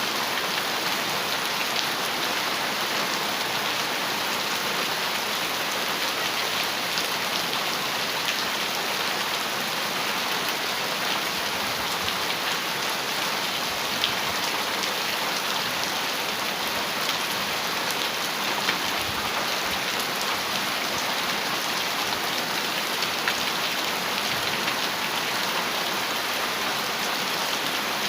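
Heavy rain falling steadily on a metal roof, an even hiss with a few sharper drop strikes standing out.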